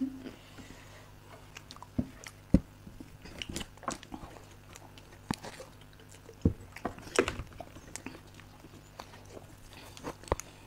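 Chewing and mouth sounds of people eating soft chocolate cake, with irregular wet clicks and smacks.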